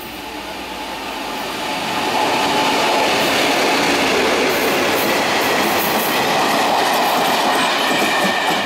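Taiwan Railways freight train, diesel-electric locomotive R115 with open hopper wagons, passing close by: the engine and wheel-on-rail noise swells over the first two seconds, then holds steady as the wagons roll past.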